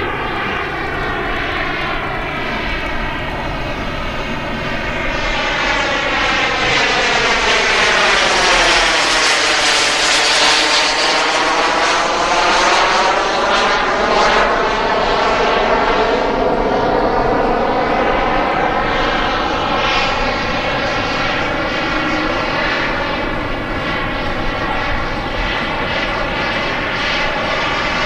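Turbine of a radio-controlled model jet flying past, a steady rushing roar that builds to its loudest about eight to fifteen seconds in, then eases off a little as the jet moves away.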